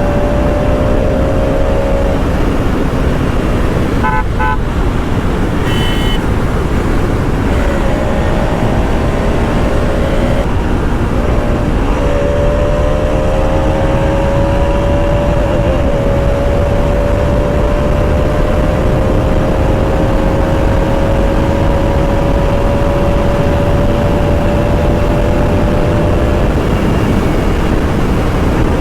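Bajaj Pulsar RS 200's single-cylinder engine pulling under way, heard over heavy wind and road noise. Its pitch climbs slowly and breaks a few times at gear changes. A vehicle horn honks briefly about four seconds in, with another short beep about two seconds later.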